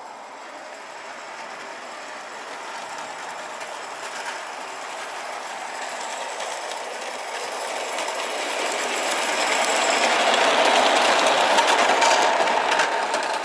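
Scratch-built live-steam model of a Class B Sharp Stewart locomotive running on garden railway track with its carriages, a noisy mechanical running sound that grows steadily louder as it approaches and is loudest near the end.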